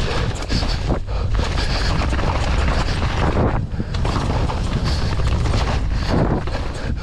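Downhill mountain bike descending a wet trail at speed: wind buffeting the microphone over steady tyre and frame rattle, with a few brief dips.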